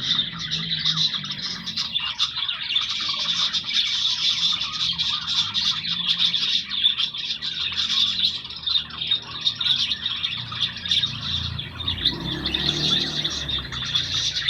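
A flock of budgerigars chattering and warbling continuously, many short overlapping chirps.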